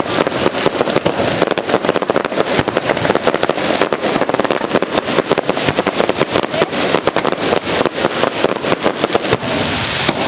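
Fireworks going off close overhead in a rapid, dense run of sharp bangs and crackles that stops just before the end.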